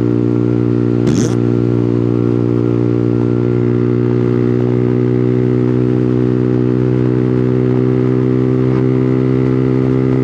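A 125cc motorcycle engine running steadily under way at an even speed, with a brief clatter about a second in.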